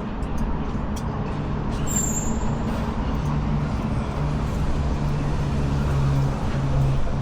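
Triumph Bonneville Bobber's 1200 cc parallel-twin engine idling steadily, running to heat the exhaust.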